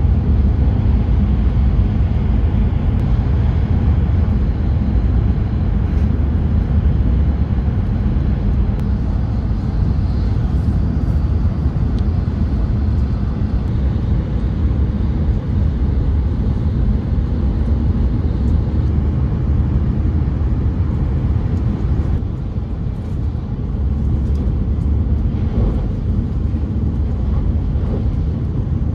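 Shinkansen Hayabusa train running at high speed, heard inside the passenger cabin: a steady low rumble.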